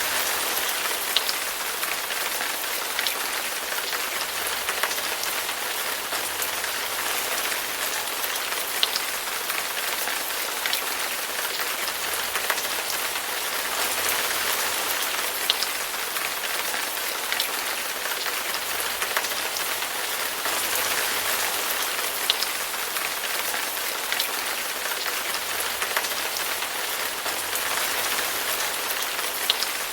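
Steady rain falling on a surface: an even, hissing wash with occasional louder single drops striking.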